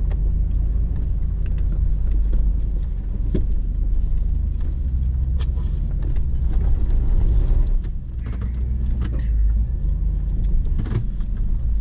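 Hummer H2's V8 engine running at low speed as the truck crawls over rock, heard from inside the cabin as a steady low rumble with scattered clicks and rattles.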